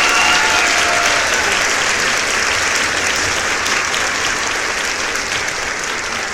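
Crowd applauding, with a brief shout at the very start; the clapping slowly dies down.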